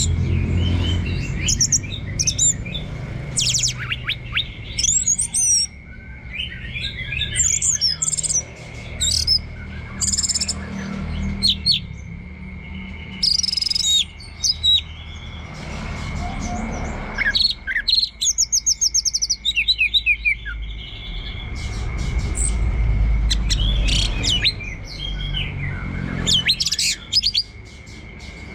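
Orange-headed thrush (anis merah) singing a long, continuous 'teler' song of short, varied whistled and chattering phrases, one after another. A steady thin high whine and a low rumble run underneath.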